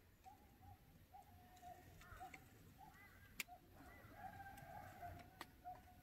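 Faint bird calls: many short, repeated notes, a few a second, with some longer drawn-out calls in the middle. There are a few soft, sharp clicks, the loudest about three and a half seconds in.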